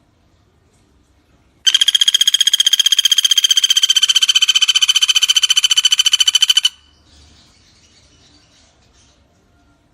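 Pelatuk bawang (common flameback woodpecker) giving a fast rattling trill of roughly a dozen notes a second, steady in pitch, starting about two seconds in and lasting about five seconds. Faint bird calls before and after it.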